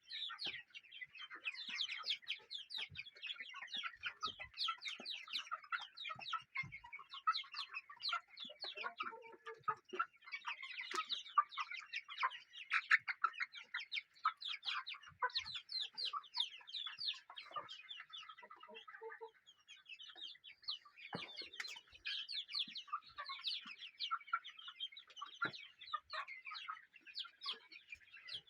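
A flock of chickens clucking and calling, many short calls overlapping without a break.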